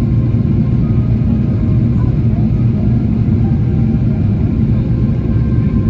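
Steady low rumble of cabin noise inside a Boeing 777-300ER, the engines and air around the fuselage heard from an economy window seat.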